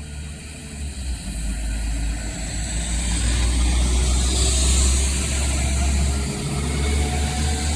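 Class 172 Turbostar diesel multiple unit pulling away from the platform, its diesel engines running under power with a deep rumble that builds up over the first few seconds. A hiss of wheel and rail noise swells around the middle as the train draws past.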